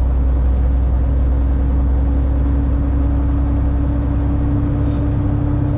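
2000 Freightliner FLD 112 semi truck cruising at highway speed, heard from inside the cab: a steady low engine drone with a constant hum-tone above it.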